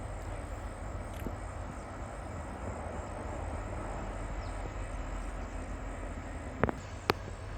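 Freight train's diesel locomotive rumbling steadily as it approaches, with two sharp clicks near the end.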